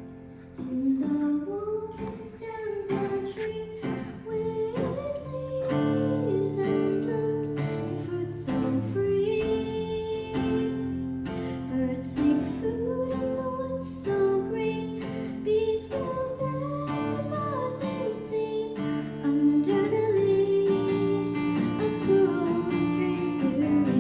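A woman singing a slow folk song over a strummed acoustic guitar; the singing comes in about a second in.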